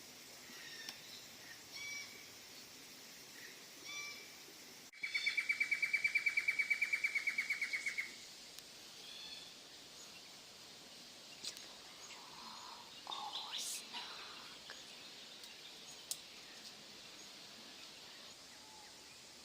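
Wild birds calling with short high chirps, then a loud, rapid trill of about eight notes a second that lasts about three seconds, followed by scattered calls.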